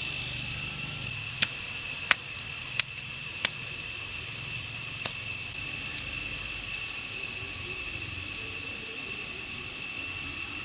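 Four sharp knocks about two-thirds of a second apart, then one fainter knock a little later, over a steady high-pitched whine.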